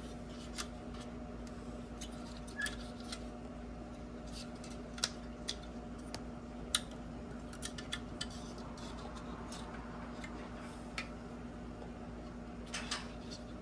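Scattered small clicks and taps of headlight parts being handled and pried apart, irregular and a few seconds apart, over a steady low hum.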